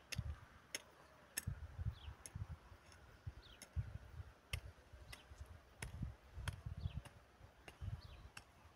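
A hoe working garden soil: dull thuds about twice a second with sharp clicks among them. A small bird gives a short falling chirp about once a second.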